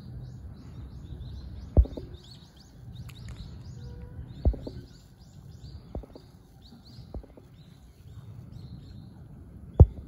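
Small birds chirping in quick high-pitched runs over a low steady rumble, with three sharp thumps, the loudest near the end.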